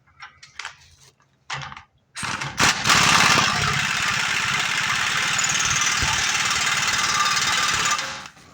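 Pneumatic impact wrench hammering steadily for about six seconds, starting about two seconds in after a few light metal clanks.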